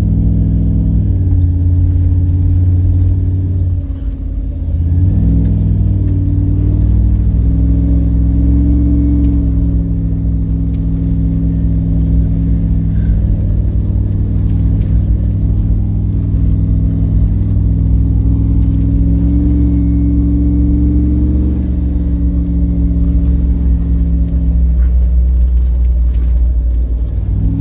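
Four-wheel-drive vehicle's engine running under steady load as it climbs a muddy track in four-low, heard from inside the cab. The engine note drops briefly about four seconds in, then holds steady with small rises in pitch.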